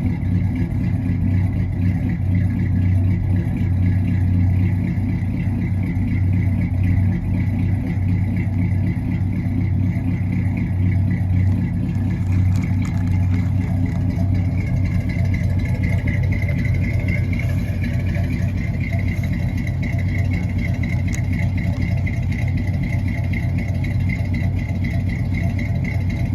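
1972 Ford F-100 pickup's engine running at a steady idle, which sounds healthy.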